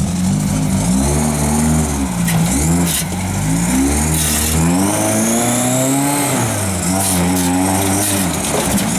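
Off-road vehicle's engine revving up and down over and over as it crawls over a rock ledge obstacle, with a few sharp knocks a couple of seconds in.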